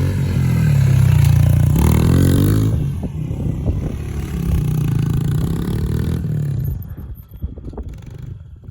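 Pit bike engine revving hard on the throttle, then dropping away about six seconds in, followed by scattered clatter and knocks.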